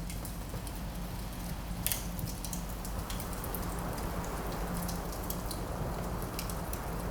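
Wood fire crackling in a fireplace: scattered sharp pops and snaps, one louder pop about two seconds in, over a steady low rush of wind.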